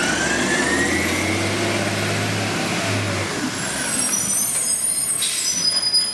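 Heavy truck running and moving, its engine and drivetrain whine rising and then falling in pitch, with a short hiss of air about five seconds in.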